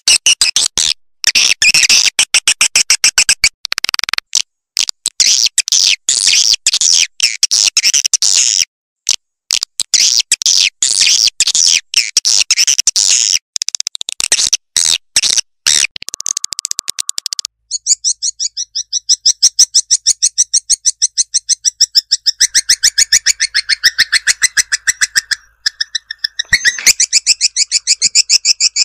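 Recorded swiftlet calls played as a lure sound for swiftlet houses: loud, rapid, high-pitched chittering trains of clicks and chirps, broken by sudden short gaps. A little past halfway the pattern changes to a faster, more even trill.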